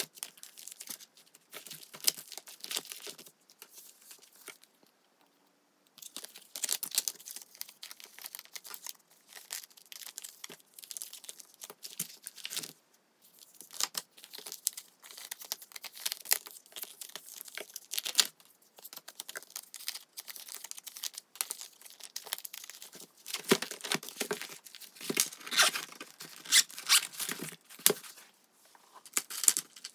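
Clear plastic binder pocket pages crinkling and rustling as photocards are slid in and out of the sleeves and the pages are turned. The sound comes in short irregular bursts with brief pauses, louder and denser near the end.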